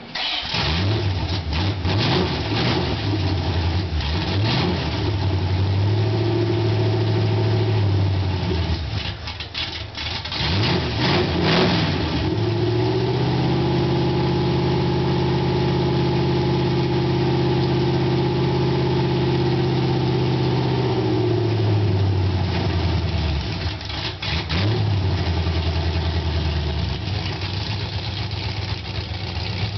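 1990 Corvette's small-block Chevy V8 with a ZZ4 cam, running through open long-tube headers with no exhaust. It starts up abruptly and settles to idle. It is then revved and held at raised revs three times, the longest hold for about eight seconds in the middle, dropping back to idle after each.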